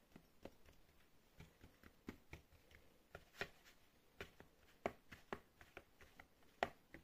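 Faint, irregular light taps and clicks, a few a second: a fork pricking cut-out honey cookie dough.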